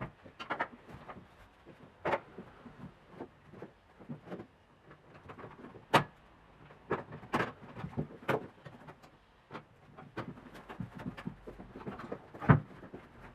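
Irregular clicks, taps and knocks of hand work on a car seat, with two sharper knocks, one about halfway and the loudest near the end.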